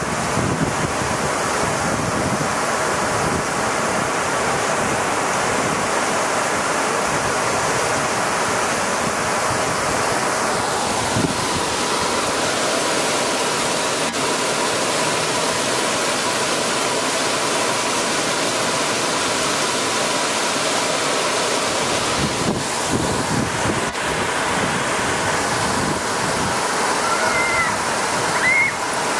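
Heavy rain pouring down in a steady, even rush on pavement, parked cars, roofs and grass.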